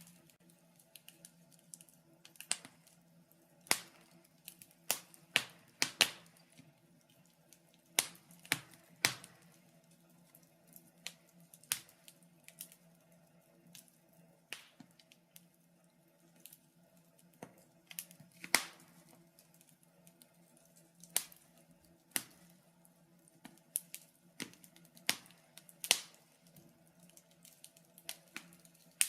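Wood fire in a fireplace crackling: irregular sharp pops and snaps, sometimes two or three close together, over a faint steady low hum.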